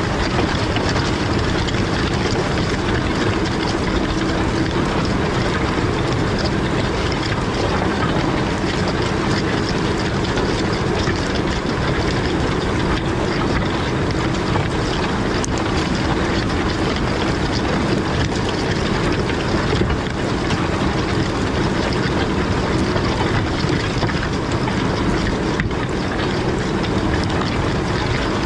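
Large farm tractor working a field, its engine running steadily under load.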